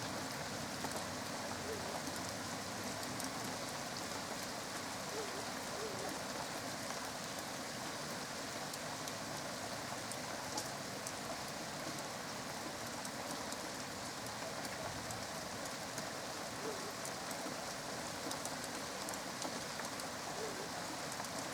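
Steady rain falling in a thunderstorm: an even hiss with many small drop ticks throughout.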